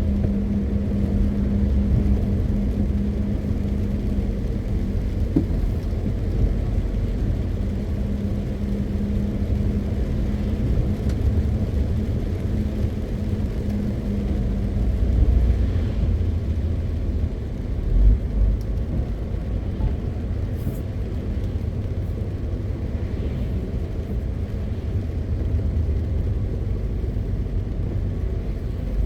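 MAN TGX 520 truck driving: a steady engine drone and road rumble, with a low hum that fades out about halfway through and two brief thumps a few seconds apart past the middle.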